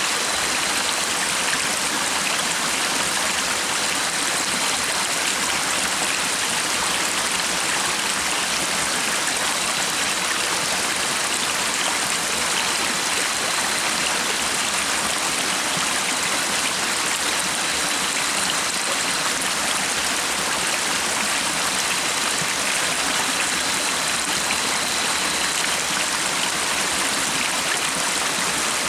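Stream water flowing steadily, a constant even rush with no breaks.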